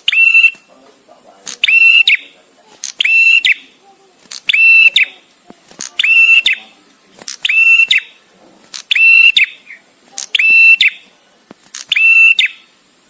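Male prenjak tamu (a prinia) calling over and over: about nine short, loud, high, even-pitched notes, each about half a second long, repeated roughly every second and a half with quiet pauses between.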